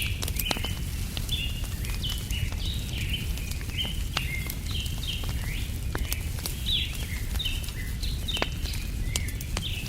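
Small birds chirping over and over in short calls, with sharp crackles from a wood fire scattered through and a low, steady rumble underneath.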